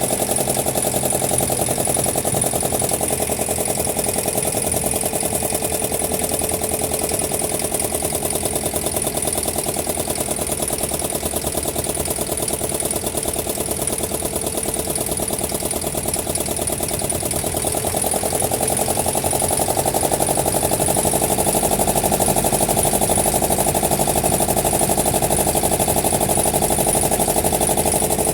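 Wooden boat's engine running steadily with a fast, even chugging, growing a little louder about two thirds of the way through.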